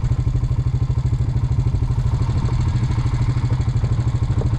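An engine idling steadily close by, with a fast, even pulse.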